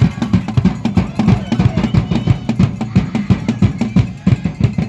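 Drums beating a fast, steady rhythm of low thuds, about three to four hits a second.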